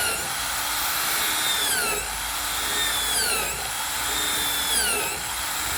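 Electric drill running at speed, its whine dropping in pitch three times as it loads up boring holes in the speaker box panel.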